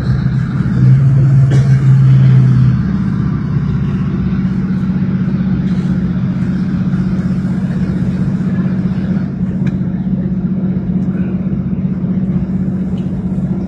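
Class 156 Sprinter diesel multiple unit's engines running under power, a steady low drone that is loudest for the first three seconds and then holds level.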